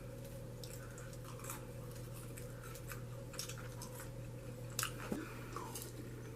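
Faint chewing and small mouth clicks, with a few soft ticks about five seconds in, over a steady low hum.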